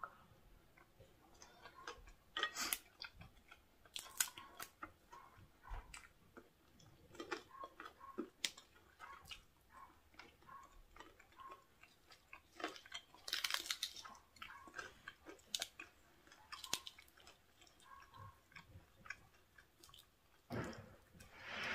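A person chewing and crunching a mouthful of papaya salad and crispy fried squid: a faint, irregular string of short crunches and wet mouth clicks, with a few louder crunchy bites.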